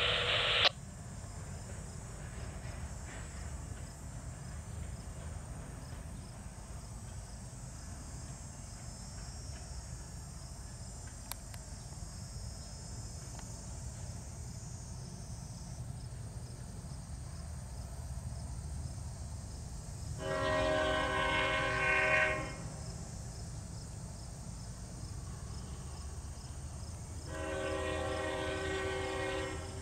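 Freight train cars rolling past with a steady low rumble, and a diesel locomotive horn sounding over it. A short blast ends just after the start, a two-second blast comes about twenty seconds in, and another sounds near the end.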